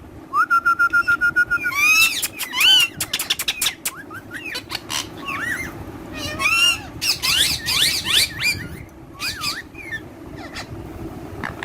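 Pet parakeets calling: a fast chattering run of repeated notes lasting about a second near the start, then many sharp, arching screeches and whistles, some overlapping.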